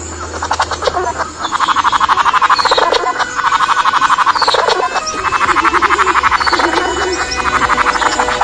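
Animal calls: long runs of rapid pulsed trilling with short higher whistled notes between them, over a steady low hum.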